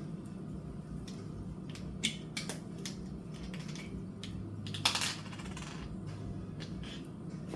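Light clicks and clatter of kitchen utensils and containers being handled, with a brief scraping rustle about five seconds in, over a steady low hum.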